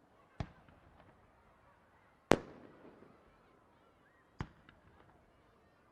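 Aerial fireworks going off: three sharp bangs about two seconds apart, the second the loudest, each trailing off in a brief echo.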